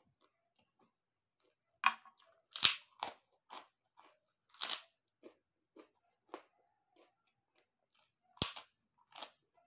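Puffed pork rinds (chicharrón) being bitten and chewed: a string of sharp crunches. The loudest come about two to three seconds in, again at about four and a half seconds, and near eight and a half seconds, with softer chewing crunches between.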